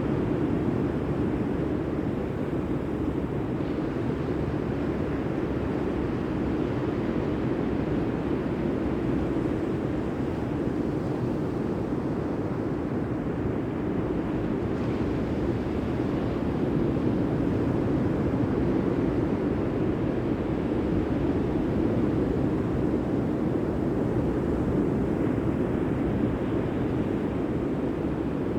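Steady rushing noise of wind and sea, with no distinct events.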